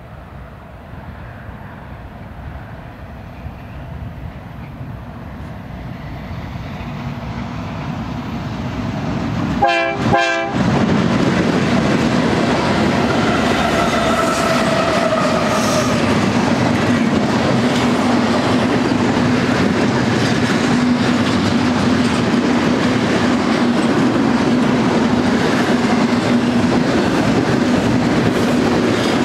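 Freight train approaching with its GE C44-9W diesel locomotives, growing steadily louder. A short horn sound comes about ten seconds in as the locomotives reach the camera. Then the loaded double-stack well cars roll past with a steady loud rumble and clatter of wheels on rail.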